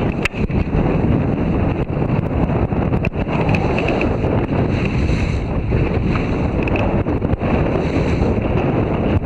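Wind buffeting the microphone steadily, over the wash of water and waves around a sailboat under way.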